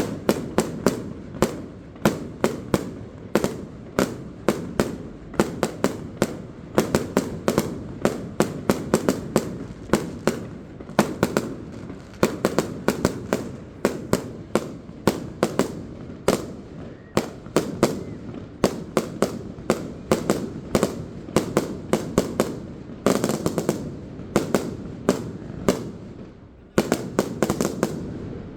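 Fireworks display: aerial shells bursting in rapid succession, about two to four sharp bangs a second over a continuous low rumble, with a brief lull a little before the end.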